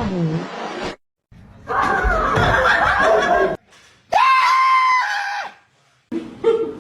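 Short bursts of laughter and a held high-pitched cry or scream, broken up by sudden cuts to silence.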